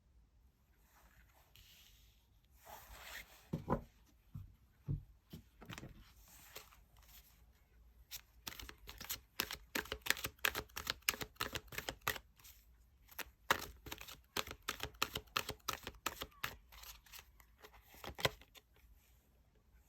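A deck of tarot cards being handled and shuffled. Rustling and a few soft knocks at first, then a fast run of crisp card clicks from about eight seconds in that stops shortly before the end.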